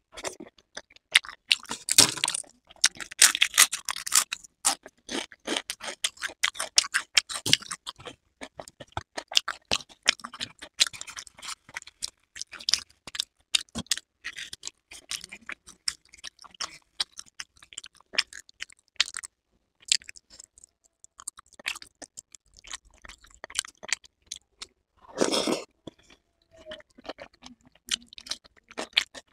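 Close-miked eating sounds: wet chewing, lip smacks and mouth clicks from bites of bhatura with chole, in a dense run of short crackles. Near the end a bite into a fresh cucumber slice crunches, and about 25 seconds in there is one short, louder rush of noise.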